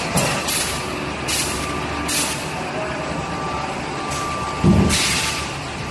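Vacuum packaging machine running with a steady hum, cut by short, sharp pneumatic air hisses, about six of them; the loudest, near the end, comes with a thump.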